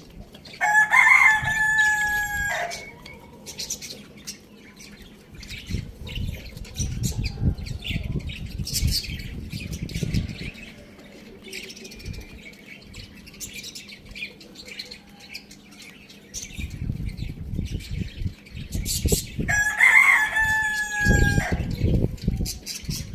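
A rooster crows twice, once near the start and again near the end, each crow a drawn-out call of about two seconds. Low rumbling and scattered clicking noises fill the gap between the crows.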